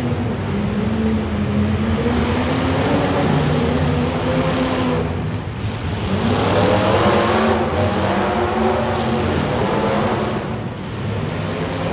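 Demolition derby car engines running hard and revving, with the pitch climbing about six seconds in.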